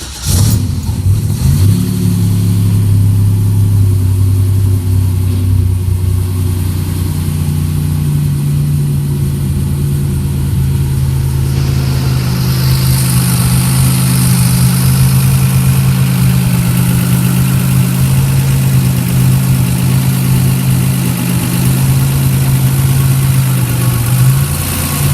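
Stage 2 turbo Buick V6 cold start on E85: the engine catches right at the start and settles into a steady, loud idle. About twelve seconds in, a high hiss joins the idle.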